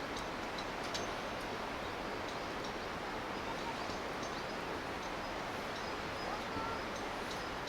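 Steady rush of flowing river water, with a few faint crackles from a wood campfire and a brief bird chirp near the end.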